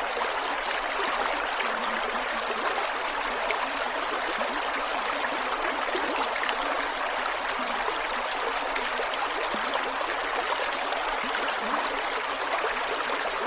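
Creek water flowing and gurgling over rocks in a steady rush, with small splashy trickles throughout.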